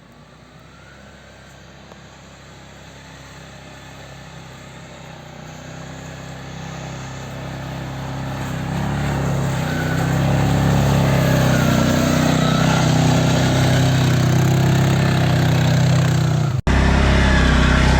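Stels Leopard 650YL quad bike engine running under load in deep snow, its revs wavering. It grows steadily louder over the first half and then stays loud, with a momentary break near the end.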